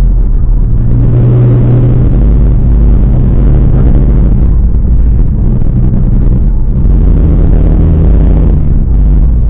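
Steady, loud low rumble of a car, with engine and road noise.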